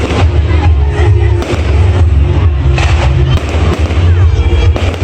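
Fireworks banging and crackling repeatedly over loud music with a heavy bass.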